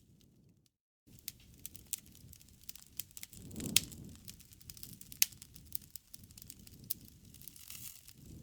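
Campfire crackling: irregular sharp pops and snaps from burning wood over a low steady rumble, with a couple of louder pops in the middle. Just under a second in, the sound cuts out completely for about half a second.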